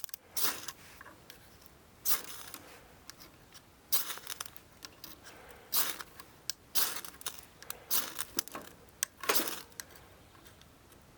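Wood fire burning in a steel fire grill, giving irregular crackles and rustling snaps every second or so.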